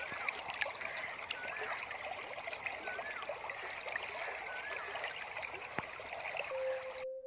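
Stream of water trickling and babbling, with a short curling call, typical of a bird, repeating every second and a half or so. Near the end a steady musical tone comes in and the water sound cuts off suddenly.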